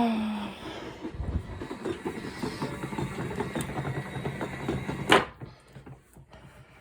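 Small tabletop washing machine running with a rapid, irregular mechanical clatter. About five seconds in comes a sharp knock, after which the running noise stops.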